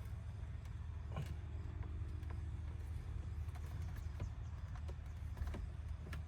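Scattered light clicks and taps of hands working at plastic dash trim and a wiring harness connector behind an instrument cluster, over a steady low hum.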